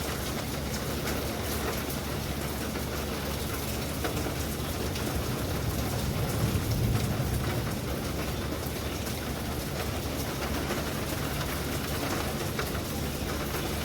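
Heavy rain falling steadily, a dense hiss of drops with fine patters throughout. A brief low rumble swells about halfway through.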